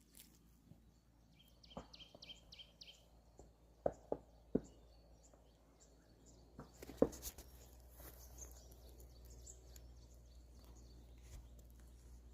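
Faint outdoor ambience: a small bird chirps a quick run of high notes about two seconds in, among a few soft knocks and rustles, the loudest knock about seven seconds in.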